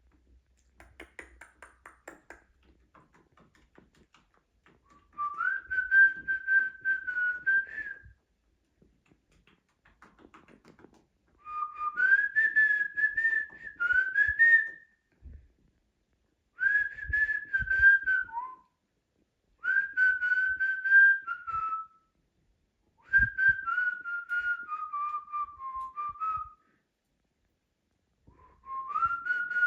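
Cockatiel whistling a run of about six phrases, each a few seconds long with short pauses between, mostly held on one pitch with small slides up and down.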